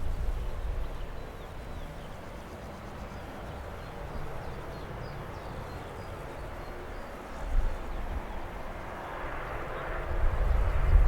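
Jet aircraft noise at an airport runway: a low rumble at the start dies down, then from about eight seconds in a jet's rushing engine noise swells steadily louder as the aircraft comes closer.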